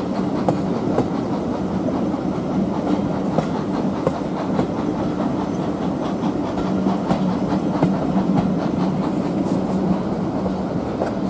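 Passenger coaches of a steam-hauled heritage train running along the line, heard from an open coach window: a steady rumble of wheels on rails with scattered rail-joint clicks.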